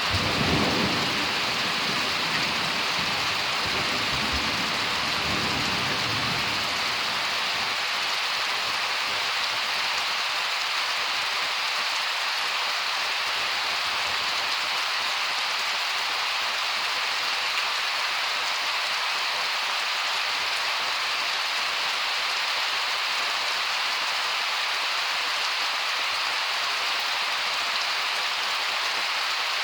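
Steady heavy rain of a thunderstorm, with a low rumble of thunder during the first several seconds that dies away.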